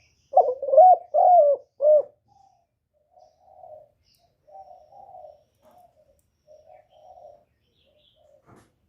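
Spotted dove cooing: a loud phrase of about four notes in the first two seconds, then a run of softer coos, with a brief click near the end. It is the excited 'gù' coo used as a lure call to draw wild doves to a trap.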